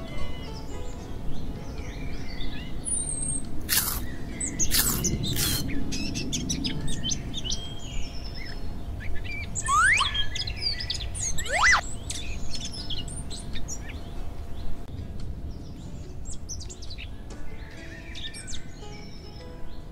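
Birdsong ambience: many short bird chirps, with two rising whistles about ten and eleven and a half seconds in, over a low background rumble. Three sharp clicks, the loudest sounds, come between about four and five and a half seconds in.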